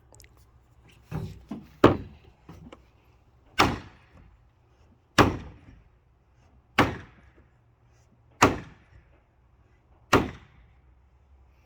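Hammer blows on a fence: a couple of lighter knocks, then six heavy, evenly paced strikes about a second and a half apart.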